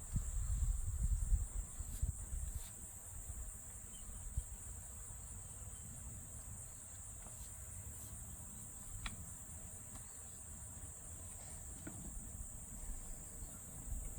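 Steady high-pitched chirring of crickets, with a low rumble in the first couple of seconds and a few faint clicks and knocks scattered through.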